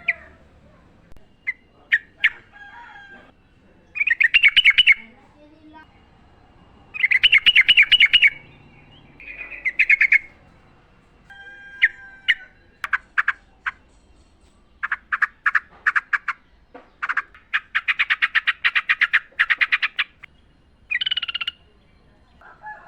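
Yellow-vented bulbul singing: bubbly, warbling phrases a second or so long, separated by short pauses, with runs of rapid clipped notes, the longest lasting about three seconds in the second half.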